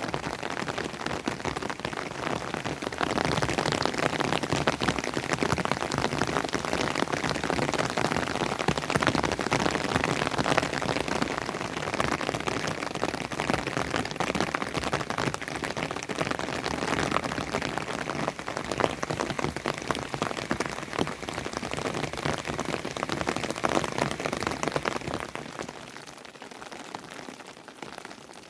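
Heavy rain falling, a dense steady patter of drops that softens near the end.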